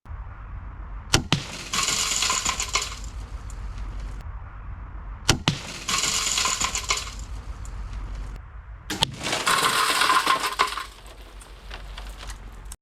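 Crossbow bolt smashing through a car door window: a sharp crack, then about a second of breaking glass, three times over.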